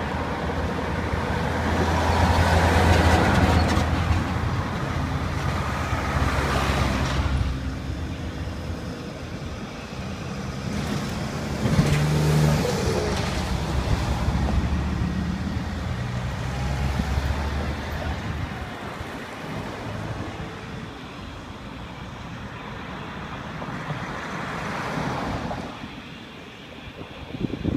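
Road traffic: a steady low engine hum with several vehicles passing, each swelling and fading.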